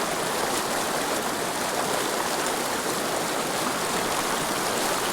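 A mountain river rushing and burbling steadily over rocks.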